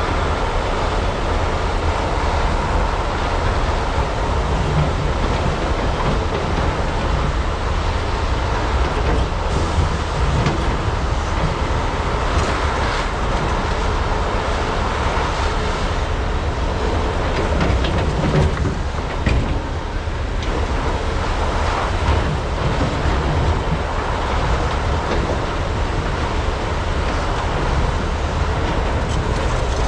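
Large diesel hydraulic excavators working, a continuous heavy engine rumble with scattered short metallic knocks from the digging and loading.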